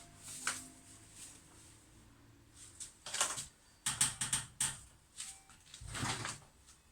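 Scattered light clicks and knocks of hands handling washing-machine hose fittings, with a quick run of clicks about four seconds in and a duller thump near the end.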